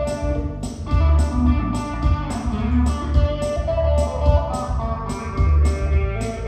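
Blues song played live in an instrumental break: a guitar plays a melodic lead over a steady beat and bass.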